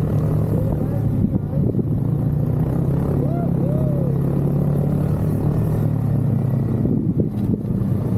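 Snowmobile engine running steadily at an even pitch under a ride, with a couple of brief tones that rise and fall about three to four seconds in.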